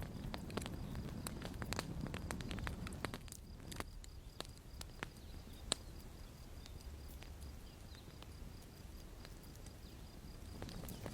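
Wood campfire crackling, with irregular sharp pops and snaps over a low rumble of burning. The crackle is dense for the first three seconds, then thins to scattered pops, with one sharper snap near the middle.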